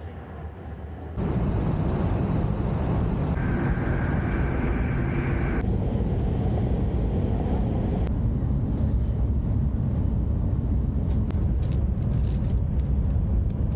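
Steady loud rumble and rush of an E5-series Shinkansen running at speed, heard inside the carriage, starting abruptly about a second in and shifting in character a few times. Near the end, a plastic food wrapper crinkles over it.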